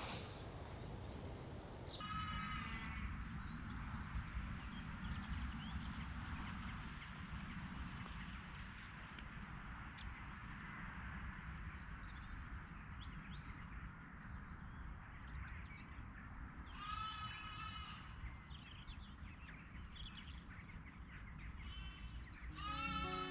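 Small birds singing and chirping, with a fuller song phrase repeated three times (about 2, 17 and 22 seconds in) and scattered short high chirps, over a steady low rumble of wind.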